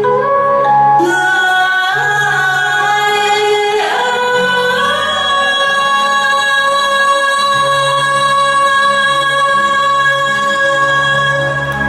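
A woman singing over instrumental backing, with a steady pulsing bass line; about five seconds in she settles onto one long held note that lasts to the end.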